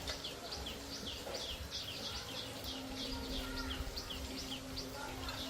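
A small bird calling in a fast run of short, high, downward-sweeping chirps, about four a second, over a low steady rumble.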